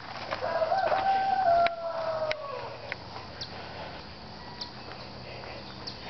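One long bird call that holds its pitch, then falls away over about two seconds, followed by a few light clicks.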